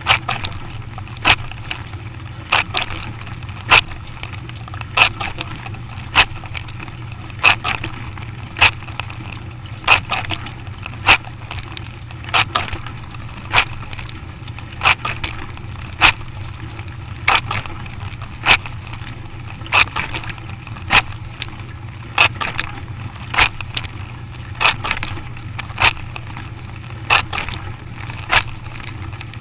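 A machine running with a steady low hum, giving a sharp crack or snap at an even beat of about one every 1.2 seconds.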